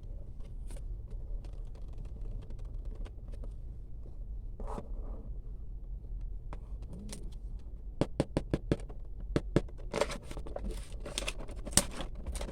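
Small plastic parts being handled at close range: sparse taps and scrapes, then quick clusters of sharp clicks about eight seconds in and again near the end, over a steady low hum.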